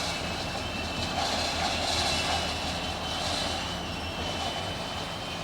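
Steady, even drone of a Union Pacific diesel locomotive engine running during switching, with a low hum and a faint high steady tone.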